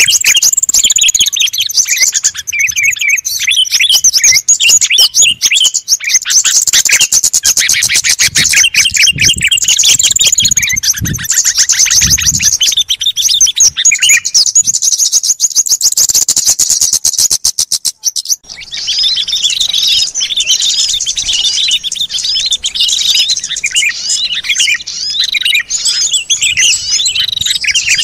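Recorded calls of many small songbirds chirping and twittering at once in a dense, busy chorus, used as a lure to draw in wild birds. Partway through comes a fast rattling trill; the sound drops out briefly, then the chirping resumes just as dense.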